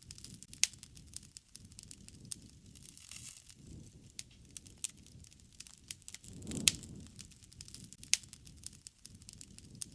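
Wood fire crackling, with sharp pops scattered irregularly throughout; about two-thirds of the way in a soft low rush of flame swells and the loudest pop comes with it.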